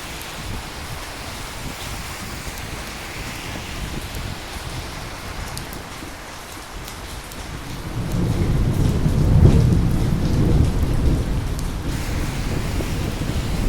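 Steady rain falling, with a rolling rumble of thunder that builds about eight seconds in, peaks shortly after and keeps rumbling.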